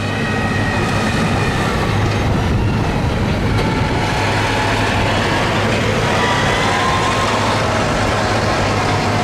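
Modified pulling lawn tractor's engine running loudly and steadily, its speed drifting up and down a little.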